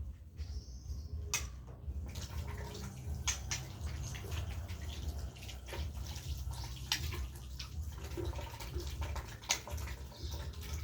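Water splashing and running with scattered clicks and knocks, as in washing out birdcages.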